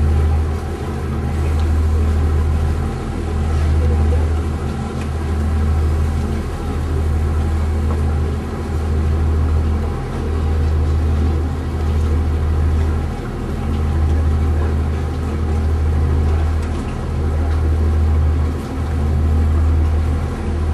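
A boat engine running steadily with a deep drone that swells and dips about every two seconds.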